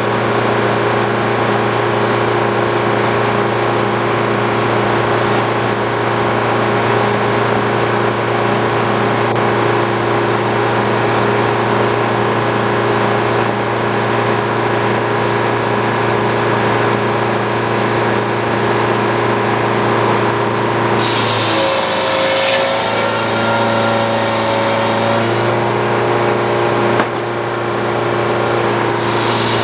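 Engine driving an old Frick circular sawmill, running steadily. About two-thirds through, a hiss with dipping, wavering tones joins in for about four seconds as the saw blade cuts the poplar log.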